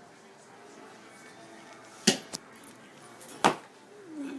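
Hard kitchen items knocking sharply, three times: a loud knock about two seconds in, a lighter one a moment later, and another about three and a half seconds in.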